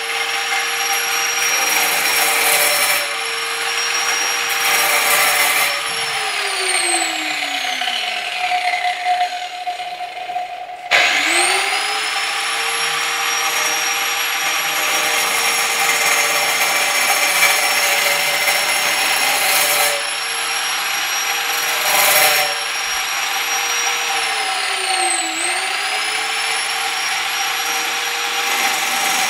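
Angle grinder running with a steady high whine over a rough grinding noise. About six seconds in it is switched off and winds down, its pitch falling. About eleven seconds in it starts again with a rising whine. Near the end its speed dips briefly and comes back up.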